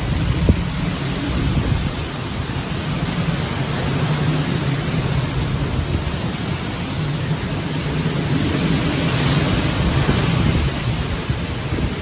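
Hurricane wind and rain as a steady rushing noise, with a low steady hum underneath and a single short click about half a second in.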